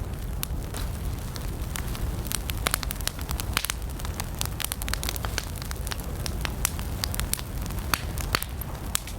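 Wood campfire burning, with many sharp irregular crackles and pops over a steady low rumble of the flames.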